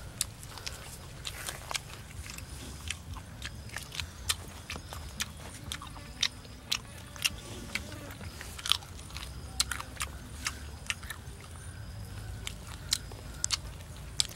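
A person eating roast chicken with his hands: irregular sharp crunching and smacking chewing sounds, several a second, over a low steady rumble.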